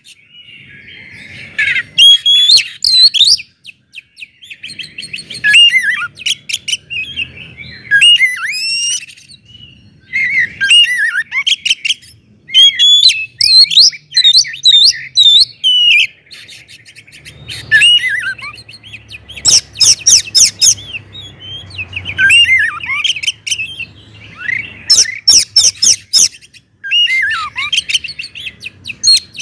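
Oriental magpie-robin (kacer) singing a loud, ringing song: phrases of rapid sweeping whistles and trills, broken by short pauses, with bursts of sharp clicking notes about two-thirds of the way through and again near the end.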